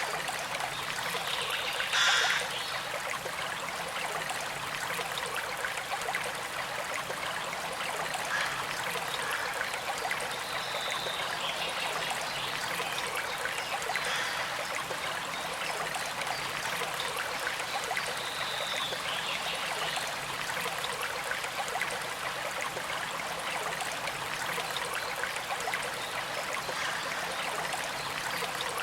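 Small creek flowing steadily, a soft continuous trickle and rush of water over stones, with one brief louder burst about two seconds in.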